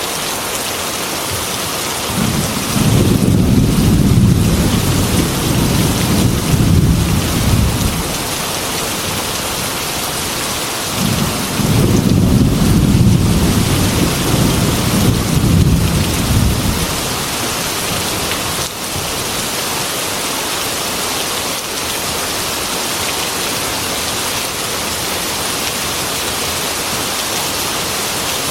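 Heavy rain falling steadily on a glass window, with two long rolls of thunder: one about two seconds in and another about eleven seconds in, each lasting five or six seconds.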